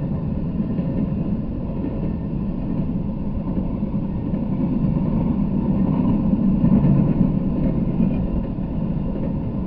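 Intermodal freight train of trailer-carrying flatcars rolling past, a steady low rumble of wheels on the rails that swells slightly about six to seven seconds in.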